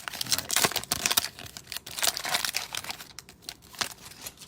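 Cellophane wrapper of a trading-card cello pack crinkling as it is torn open, a dense run of crackles and clicks that thins out near the end.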